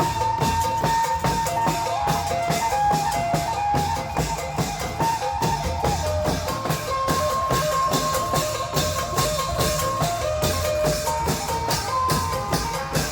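Klong yao long-drum ensemble playing Isan-style music: fast, steady drumming with a held melody line that steps from note to note above it.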